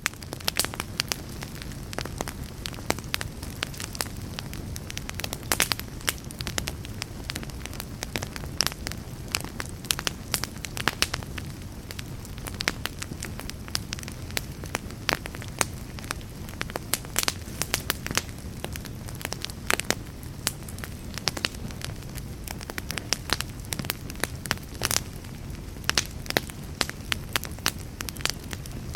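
Wood logs burning in a fireplace: a steady low noise with frequent sharp crackles and pops throughout.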